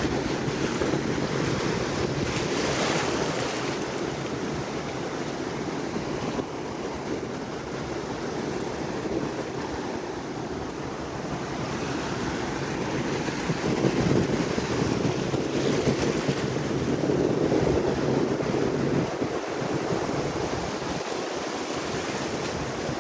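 Ocean surf breaking and washing up the beach, with wind rumbling on the microphone. The surf swells a little louder about two-thirds of the way through.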